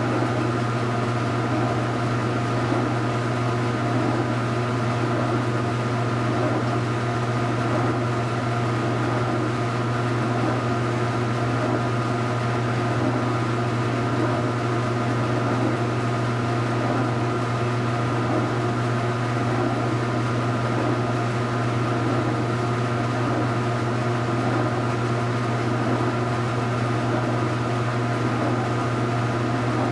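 2015 Speed Queen 8 Series top-load washing machine running mid-cycle with a steady motor hum.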